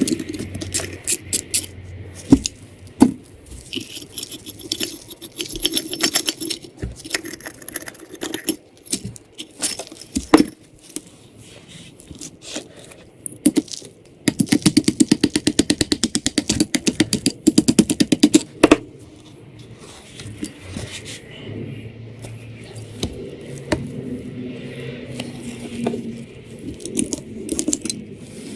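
Metal parts and hand tools clinking, rattling and scraping during work on a starter motor, with a run of rapid, evenly spaced clicks for about four seconds a little past halfway.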